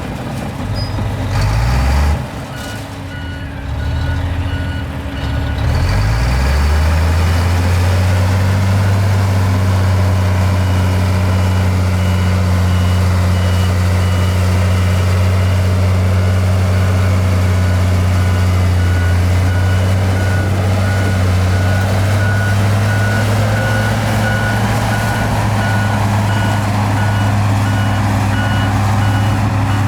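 Heavy diesel earthmoving machinery running, its engine settling into a loud steady drone about six seconds in, while a reversing alarm beeps repeatedly: a machine backing up.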